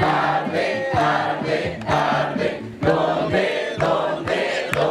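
A group of voices chanting a campfire song in unison, drawing out the word 'arde' ('it burns'), over a steady beat of sharp strikes about twice a second.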